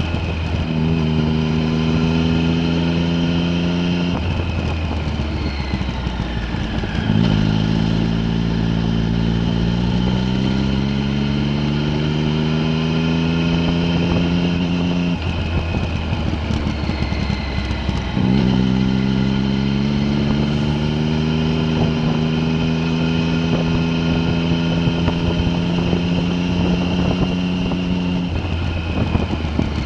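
A vehicle engine driving a winding mountain road under varying throttle. Its pitch climbs slowly as it pulls, falls away three times and jumps sharply back up twice.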